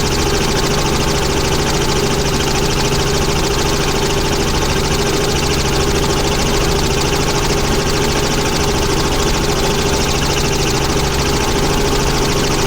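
Helicopter engine and rotor noise heard from inside the cabin in flight: a loud, steady drone with a fine, rapid pulsing.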